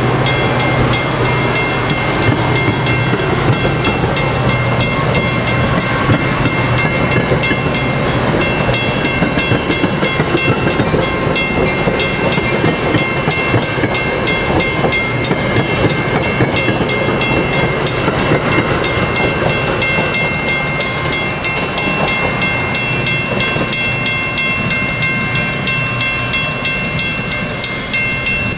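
A train rolling past at close range: a steady rumble and clatter of wheels on rail with a fast, even ticking, and thin steady high-pitched squeal tones over it. It eases off slightly near the end.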